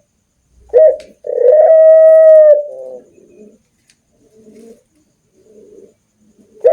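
Dove cooing: a short note, then one long drawn-out steady coo, trailing off into softer low murmured notes. The call begins again near the end.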